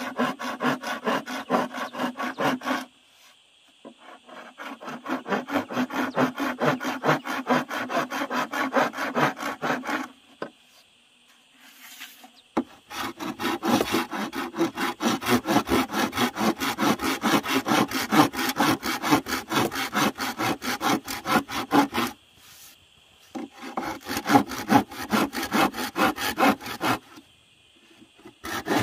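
Hand saw cutting through wood in quick, even back-and-forth strokes, in several bouts with short pauses between them.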